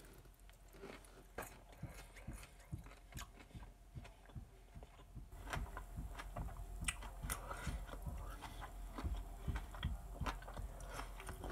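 A man chewing a forkful of baked potato and asparagus: a string of soft, irregular clicks and smacks from the mouth, getting busier about halfway through.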